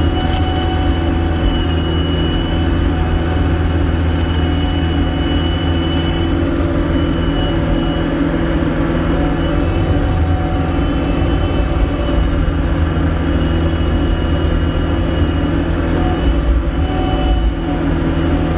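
Gehl 5625SX skid steer's diesel engine running steadily, with a thin high whine over it that fades in and out.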